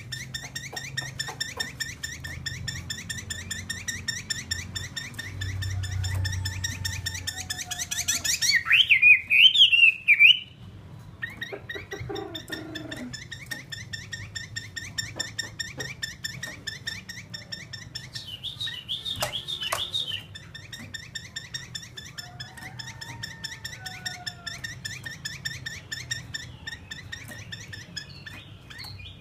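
Chinese hwamei (fighting hwamei) singing: a fast, steady run of short repeated chattering notes, broken by a loud warbled phrase about nine seconds in and another, shorter one around nineteen seconds.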